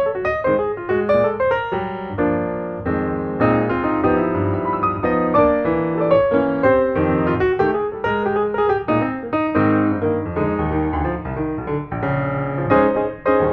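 Piano music, a busy run of quick notes over chords.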